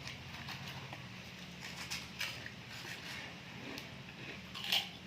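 Close-up eating sounds: sea grapes being chewed, with scattered wet clicks and pops, a louder one near the end, over a steady low hum.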